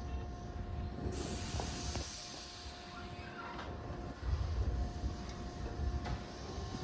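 Tobu 8000-series electric commuter train at the platform just after its doors close: a sudden burst of air hiss about a second in, then low rumbling as the train moves off.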